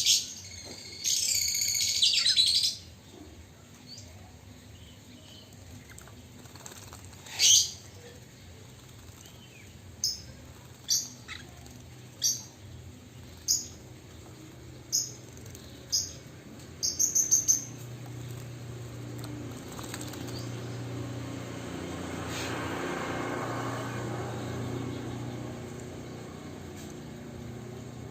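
Chinese hwamei calling: a brief dense burst of song near the start, then a string of short sharp notes about one a second, ending in a quick run of three. A soft rushing noise with a low hum swells in the second half.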